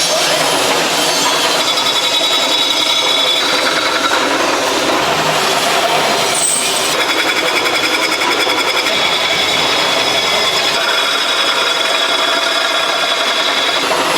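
A power tool running steadily against a workpiece, a continuous grinding-like noise with a faint high whine, changing in character every few seconds.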